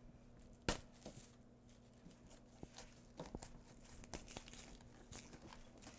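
Knife cutting into a hard raw cauliflower head: one sharp knock less than a second in, then faint scattered crunching and crackling.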